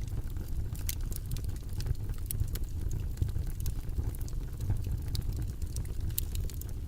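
Steady, low, rumbling background noise track, the study session's 'white noise', with a few light, scattered clicks over it.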